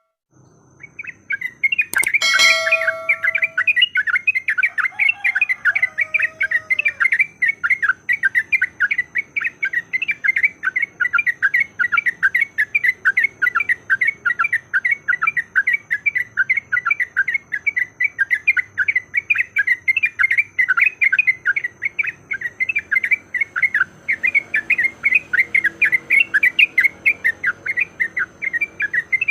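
Yellow-vented bulbul (trucukan) calling in a rapid, unbroken run of short chattering notes, the fighting-challenge call used to provoke other bulbuls to sing. A bright chime rings out about two seconds in.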